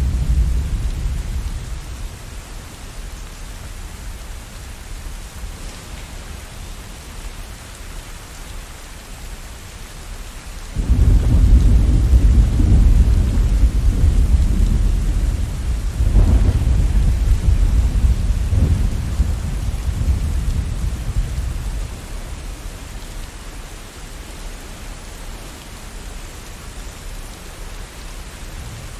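Steady rain with thunder. A low rumble fades away in the first couple of seconds; about eleven seconds in a sudden loud peal begins and rolls on with two more surges before dying down some ten seconds later.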